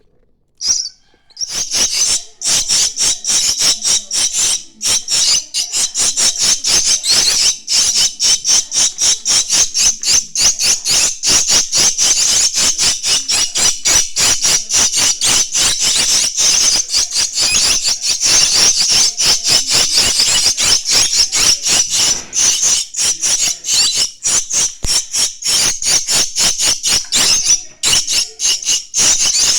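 Starling (jalak) chicks calling nonstop: a dense, rapid stream of shrill, harsh chirps, many a second, starting about a second and a half in.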